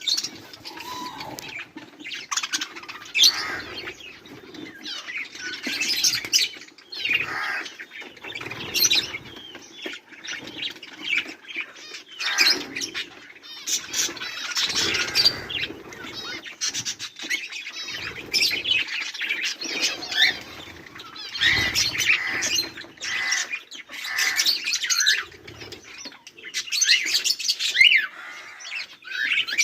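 A flock of budgerigars chirping and chattering continuously, many overlapping calls with no pause.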